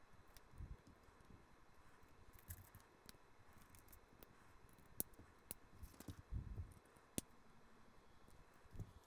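LEGO plastic bricks handled and snapped together: a few faint sharp clicks and some soft thumps of pieces set down.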